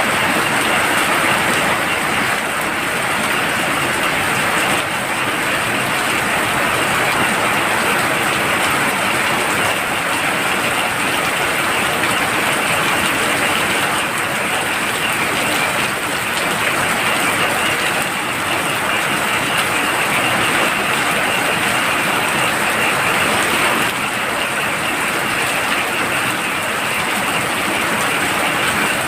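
Heavy rain pouring steadily at night, with a continuous high-pitched frog chorus running through it.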